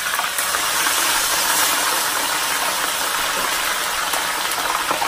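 Fish frying in hot oil in a skillet: a steady, loud sizzle.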